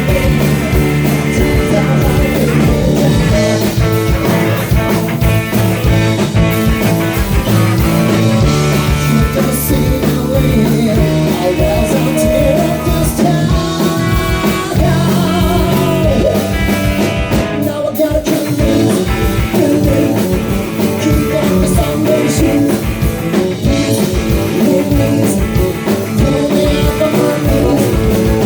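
Live rock band playing a song, with drum kit, bass and guitar under a sung lead vocal, at a steady beat.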